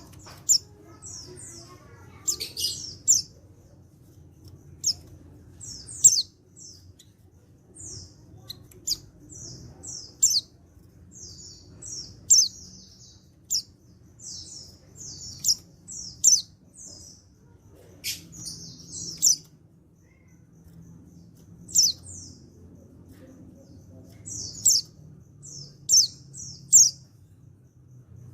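Male white-eye (pleci) calling: short, high chirps in quick clusters of two to five, repeated every second or two, over a faint low hum.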